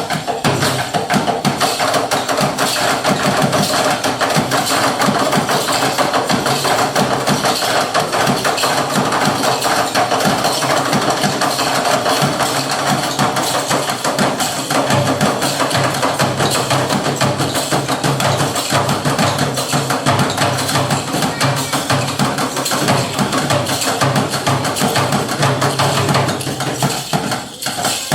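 Live ensemble music driven by dense, fast percussion strokes over a steady low sustained tone, with a brief drop in level near the end.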